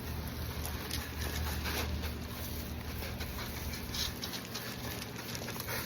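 Garden hose spraying water that patters onto a minibike, with a steady low rumble underneath.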